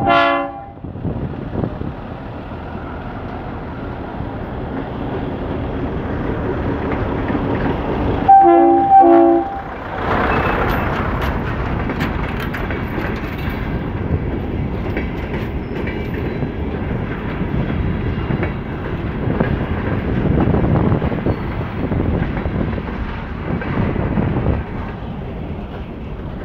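Train horn: a blast trailing off at the start, then two short blasts about eight seconds in. After that, the steady rumble of the passenger coaches rolling past, with the wheels clicking over the rails.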